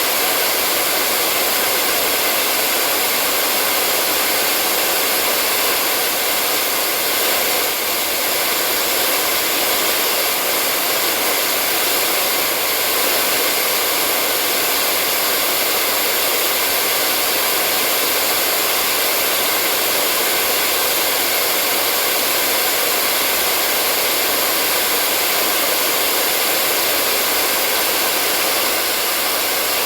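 Hair dryer running steadily on one setting: a constant airy rush of blown air with a faint motor whine.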